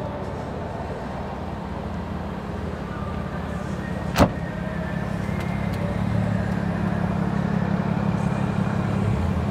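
A car engine running with a steady low rumble that grows a little louder in the second half. One sharp click about four seconds in.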